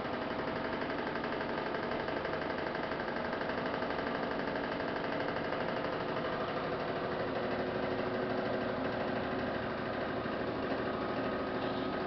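Samsung WF448 front-loading washing machine running, a steady mechanical hum with several held tones.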